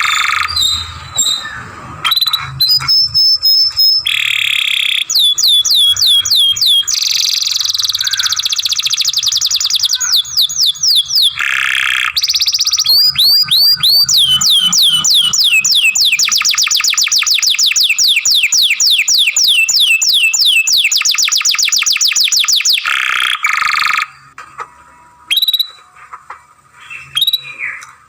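Domestic canary singing a long unbroken song of rapid trills: long runs of fast, evenly repeated falling notes, several rolls one after another. The song stops about 24 seconds in, leaving a few short calls.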